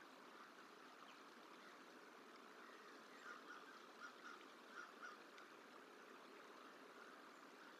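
American crow cawing faintly, about six short caws in quick pairs a few seconds in, over a steady background hiss. It is a crow scolding a juvenile bald eagle.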